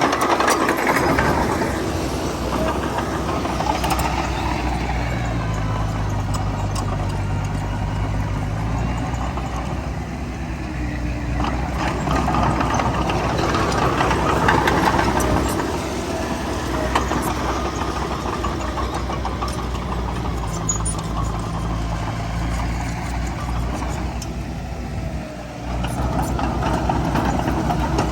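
Heavy diesel earthmoving machinery running under varying load: a steady low engine hum that swells and eases over several seconds, dips briefly near the end and picks up again, with a few sharp metallic knocks.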